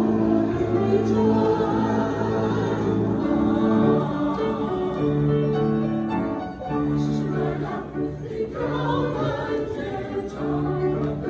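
A choir singing a Chinese song in slow, long held notes that move from one pitch to the next.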